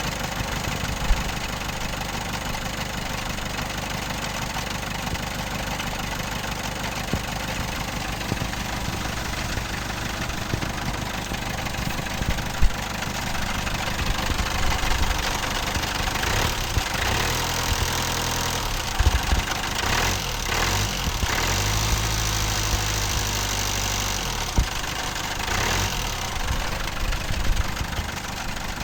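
Engine running just after a major overhaul with a knocking rattle, 'like a broken can in a bag': a knock despite the fresh rebuild. Its speed rises briefly twice around the middle.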